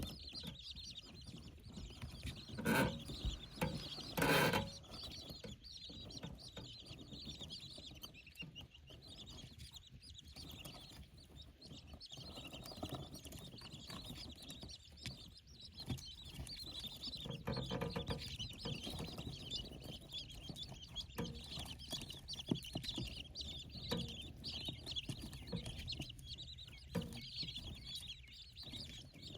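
A brood of young king quail chicks cheeping steadily in high, rapid peeps. Two louder knocks or rustles come about three and four and a half seconds in.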